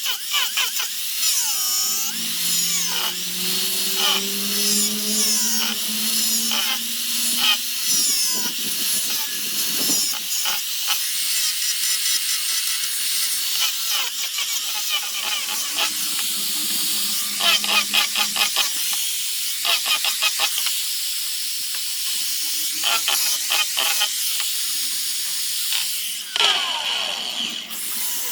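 Handheld high-speed rotary carving tool grinding into torreya wood. Its whine rises and falls in pitch as it bears on and lifts off the wood, with brief pauses and scraping clicks between passes.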